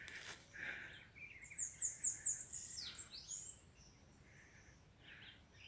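Faint wild bird calls: a quick run of about five high, falling notes, followed by a longer sliding note and a few softer chirps.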